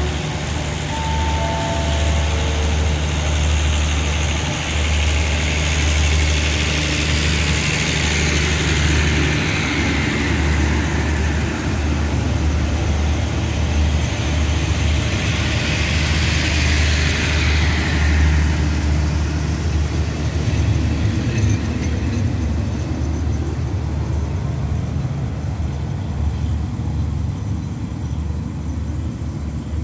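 Passenger train pulling out of the station: its coaches roll past with a steady low rumble and a rushing wheel-on-rail noise that swells and then eases as the train moves away.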